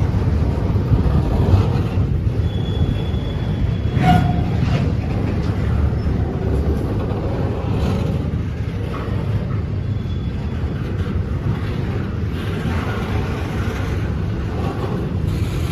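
Train passing with a steady low rumble, and a single sharp clank about four seconds in.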